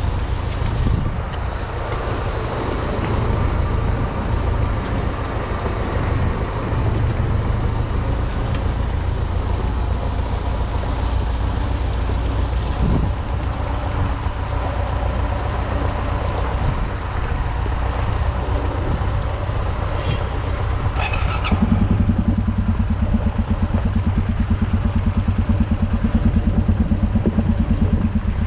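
UTB U650 tractor's four-cylinder diesel engine running steadily, with some clattering. About 21 seconds in, the engine note changes and grows louder, with a rapid even beat.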